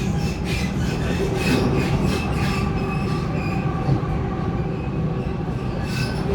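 Waratah A set electric train running on the track: a steady rumble with repeated clicks and brief high squeals from the wheels.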